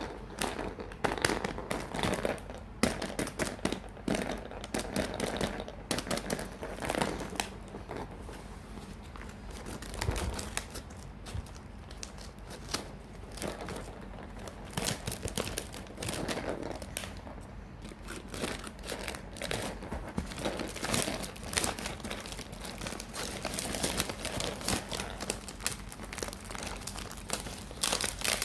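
Blind-bag packets crinkling as they are handled and opened: a dense, uneven run of crackles and rustles.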